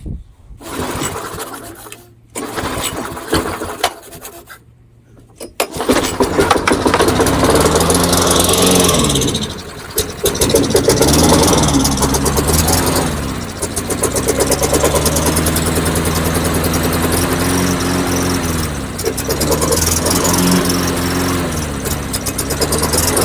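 Tecumseh small engine on a push mower being pull-started: a couple of pulls, then it catches about six seconds in and runs. Its speed rises and falls several times as it runs on gasoline squirted down the intake, while the carburetor is suspected of not feeding fuel.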